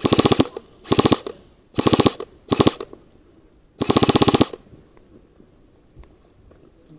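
Airsoft gun firing in short full-auto bursts: five quick strings of rapid shots in the first four and a half seconds, the last one the longest.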